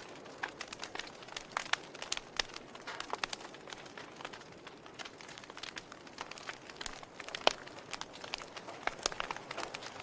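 Fire burning and crackling: a soft steady hiss with irregular sharp pops and snaps, one louder pop about seven and a half seconds in.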